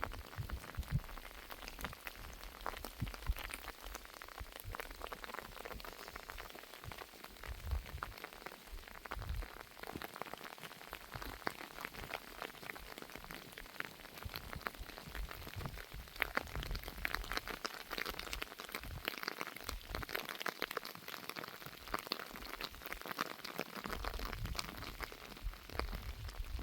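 Steady rain falling, a dense patter of many small drop impacts, with intermittent low rumbles.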